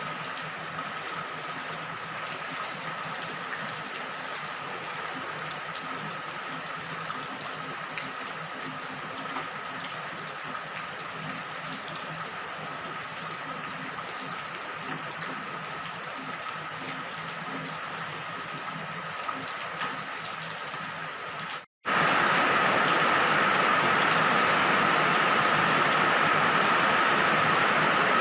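Steady rain, an even hiss of falling water. About 22 seconds in it cuts out for a moment and comes back louder.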